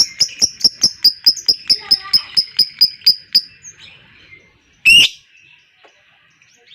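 Lovebird giving its long 'ngekek' chatter: a fast run of sharp, high chirps, about five a second, that stops about three and a half seconds in, followed by one loud harsh call about a second later.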